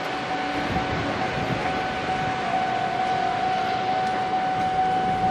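A train moving slowly through a rail yard, with a steady high-pitched tone and a fainter overtone above it sounding over an even rumble.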